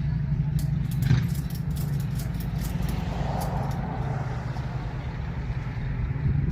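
An engine running steadily at idle, with a quick series of light clicks or ticks about a second in.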